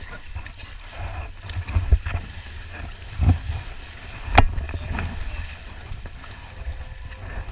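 Ride boat on a river water ride moving through water, with wind rumbling on the microphone and scattered knocks, the sharpest about four seconds in.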